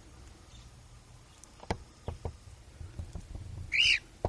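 Cockatiel giving one short, loud chirp near the end, preceded by a few faint clicks and taps.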